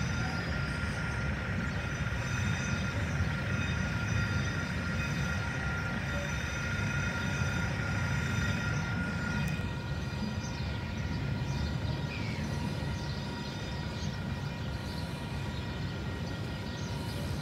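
Freight train of loaded log wagons rolling through a level crossing: a continuous low rumble of wheels on rail, with steady high tones over it until about halfway. After that the rumble eases as the last wagons clear the crossing.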